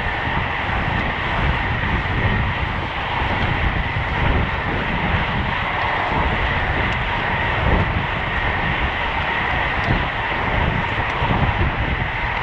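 Steady rush of wind on the microphone and road noise from a road bike riding at race speed, with a deep continuous rumble and a faint steady whine underneath.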